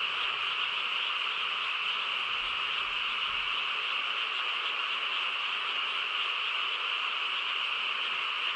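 A dense chorus of many frogs calling at once, a steady unbroken din of overlapping calls.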